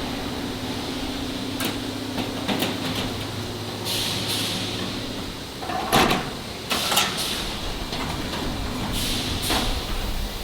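Factory machinery: a steady low hum that dies away about halfway through, with short bursts of hiss and a few sharp knocks in the second half.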